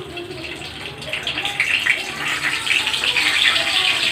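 Hot oil in a kadai sizzling and spattering as whole spices and a bay leaf go in. The noise swells about a second in, and the spitting comes from water on the bay leaf.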